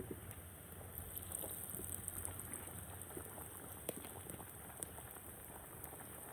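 Food sizzling and bubbling in a cooking pot: a steady crackle of many small pops, with a few sharper ones.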